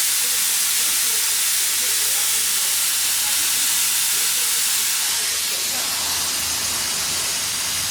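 Air rushing out of a truck tyre through the open valve stem, its valve core removed to deflate it: a loud, steady hiss that eases slightly over the last few seconds.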